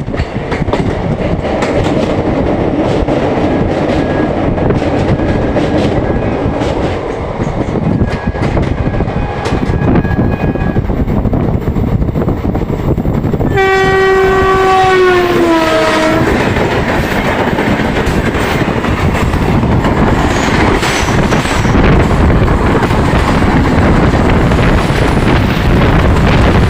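Indian Railways express trains crossing: a steady rumble of a train running on the track, then about halfway through a locomotive horn blares for about two and a half seconds, its pitch dropping near the end as it goes past. A louder, even rushing noise of the passing train follows.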